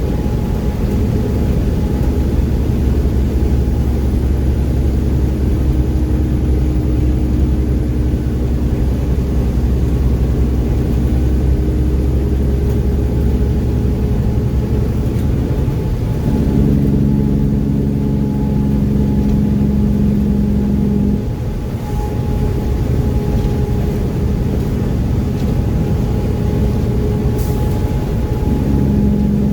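Mack truck's diesel engine running steadily under way, a loud low drone. Its tone shifts about 16 seconds in and again near the end, and it eases off briefly around 21 seconds in.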